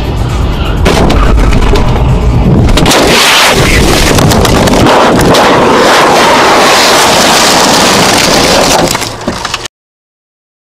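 Loud, distorted crashing noise full of sharp cracks and breaking sounds, typical of a vehicle collision caught on a dashcam microphone, cutting off abruptly about nine and a half seconds in.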